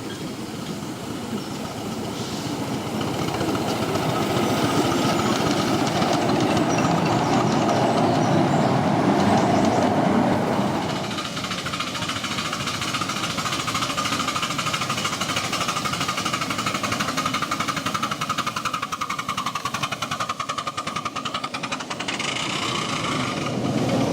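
A miniature railway train running on the track, growing louder until about ten seconds in, then dropping away suddenly and carrying on more quietly.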